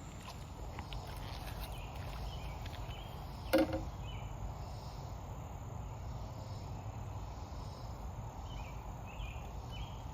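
Outdoor ambience: a steady low rumble with faint, repeated insect chirps, and a single sharp knock about three and a half seconds in.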